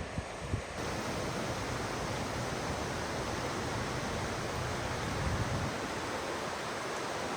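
Floodwater rushing down the wadi in a steady, even roar. In the first second there is also a low rumble of wind on the microphone.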